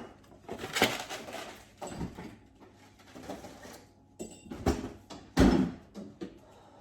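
Kitchen handling noises: irregular knocks and clatter of things being moved and set down, with a heavier dull thump about five seconds in.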